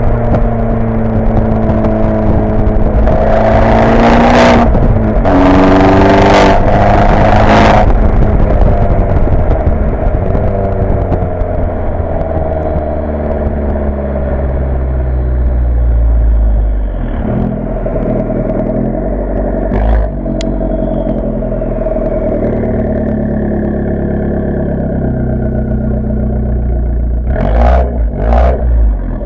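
Abarth 595 Competizione's turbocharged 1.4-litre four-cylinder engine running through a Record Monza exhaust with its valve open and a 200-cell catalyst. The engine note rises and falls repeatedly as it revs and accelerates. Loud bursts of noise come in a few seconds in, again a second or two later, and twice briefly near the end.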